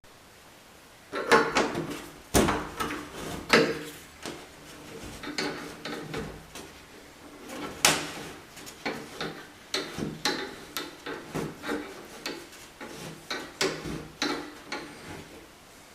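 Irregular clicks, knocks and scrapes of a tool working against metal as the nut sleeve is loosened and taken off a shower valve stem. They start about a second in and come every fraction of a second to a second.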